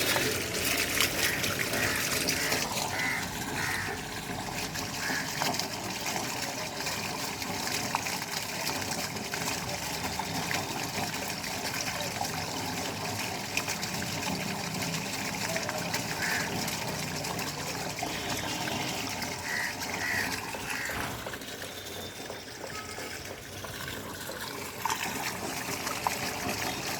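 Rainwater running and trickling steadily into a drain.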